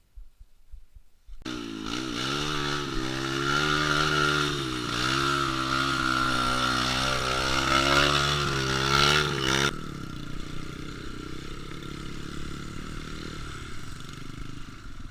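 Trail motorcycle engine revving, its pitch rising and falling, starting about a second and a half in and cutting off abruptly near ten seconds. It gives way to a quieter, rougher engine and ground noise.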